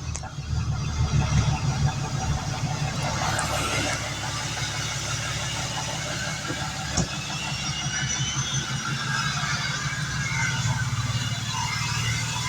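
Diesel truck engine idling steadily just after a cold start in freezing weather, warming up.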